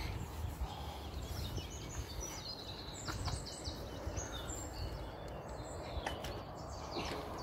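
Birds chirping in short high notes over a steady low rumble of outdoor noise, with a few faint clicks.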